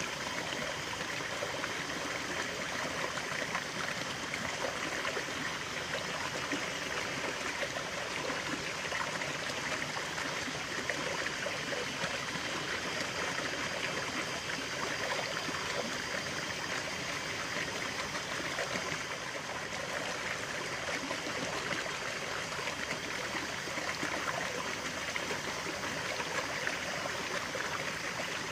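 Running water of a stream, burbling and trickling steadily.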